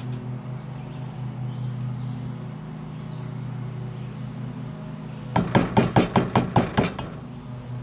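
A quick run of about eight sharp knocks, around five a second, lasting about a second and a half, over a steady low hum.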